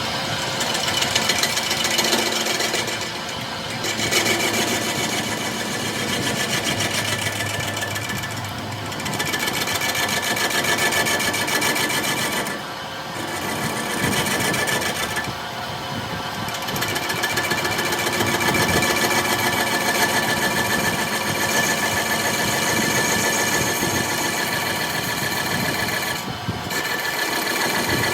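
A power tool working metal: a continuous fast rattle, with several brief pauses.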